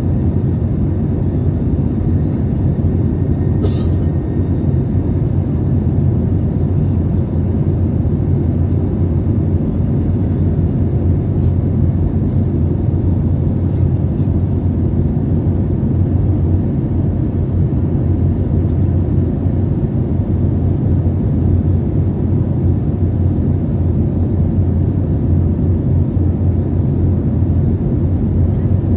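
Airliner cabin noise in flight: the steady, low-pitched sound of the engines and airflow heard from inside the passenger cabin. A brief faint click about four seconds in.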